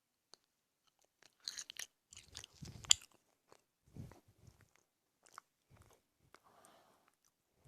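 Close-miked mukbang eating: crunchy biting and chewing, an irregular run of sharp cracks and crackles, loudest about two to three seconds in, then softer, sparser chewing.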